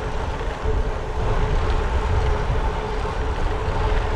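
Wind rushing over the microphone and road noise from a bicycle rolling along at speed, with a steady faint hum.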